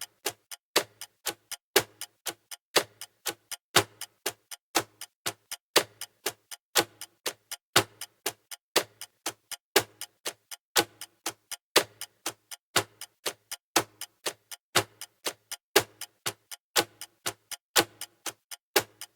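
Clock-like ticking sound effect of a countdown timer: sharp, even ticks about four a second, with a louder tick about once a second.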